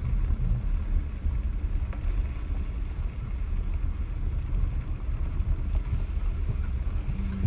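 A car driving, its steady low road and engine rumble.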